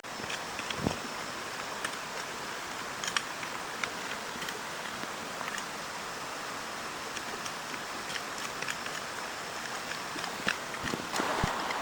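Steady heavy rain making an even hiss, with scattered sharp ticks of drops throughout and a dull thump about a second in.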